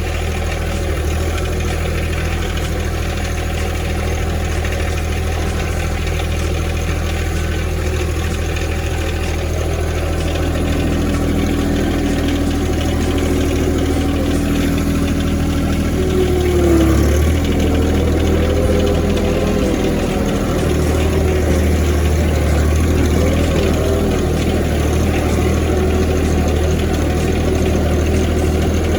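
Compact four-wheel-drive tractor's engine running, mostly steady, with the engine note changing about ten seconds in and a brief surge with a bend in pitch around two-thirds of the way through, after which the engine speed wavers.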